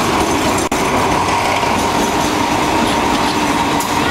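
A State Railway of Thailand Alstom diesel locomotive rolling past at close range as it pulls into the station, followed by its passenger carriages: loud, steady running noise of engine and wheels on the rails, with a steady squeal through it.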